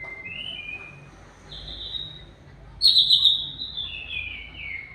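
Oriental magpie-robin whistling a run of clear notes, loudest about three seconds in, with the last notes sliding down in pitch.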